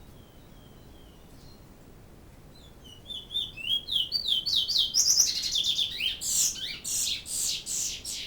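Pet bird chirping: a few faint notes, then about three seconds in a quick run of rising chirps that builds into loud, rapid, high-pitched chirping from about five seconds in.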